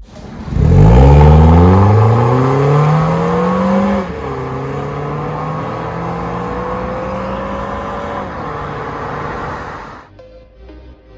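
Mazda2 1.5 with an MS-R valved cat-back exhaust accelerating hard, the exhaust note climbing quickly in pitch. About four seconds in it drops at an upshift, then climbs slowly in the next gear, levels off, and cuts off abruptly near the end.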